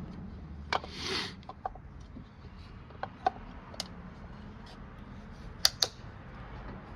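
Scattered sharp clicks and light knocks of hand work under the bonnet as the distributor cap is refitted to a classic Mini's engine. There is a short scraping hiss about a second in and two louder clicks close together near the end.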